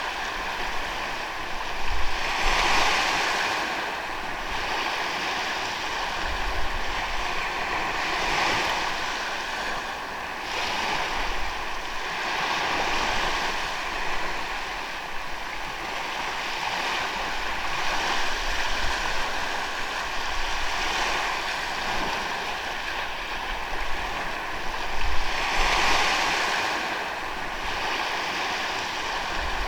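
Ocean waves breaking and washing onto a beach, a steady wash with louder surges from bigger waves about two seconds in, around eight seconds in and near the end.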